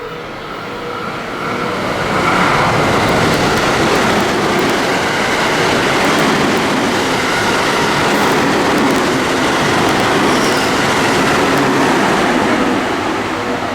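A train running through a station at speed without stopping: a loud, steady rush of wheels on rail that builds about two seconds in and eases off near the end.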